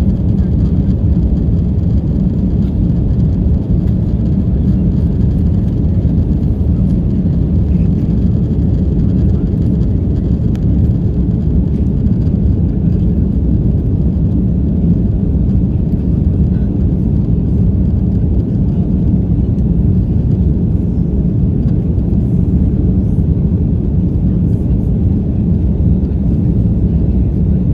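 Steady cabin noise inside an Airbus A330-343 in flight: an even, low rumble of its Rolls-Royce Trent 700 engines and airflow, with no change in level.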